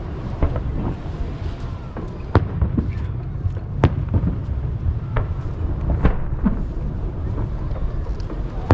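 Aerial firework shells bursting over the sea: sharp bangs at irregular intervals, the loudest about two and a half, four, five and six seconds in, over a continuous low rumble of bursts echoing back from the surrounding hills.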